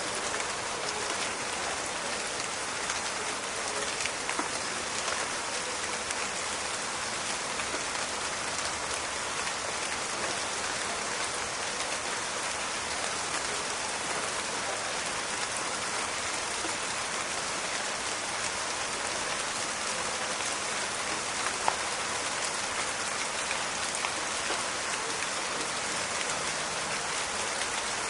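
Steady rain falling in a forest, a dense patter with scattered distinct drop ticks; one sharper drip stands out about three-quarters of the way through.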